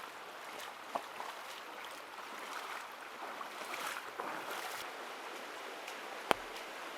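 Steady noise of rain and running water in a forest, with scattered sharp ticks of drops or twigs. The loudest tick comes about six seconds in.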